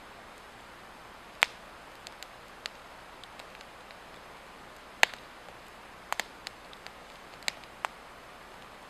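Swedish torch log fire crackling: irregular sharp pops of burning wood, the loudest about one and a half and five seconds in, over a steady hiss.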